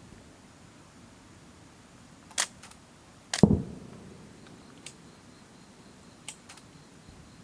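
Fireworks shells bursting: two sharp cracks about two and a half seconds in, then a loud boom that rumbles away, followed by a few fainter pops.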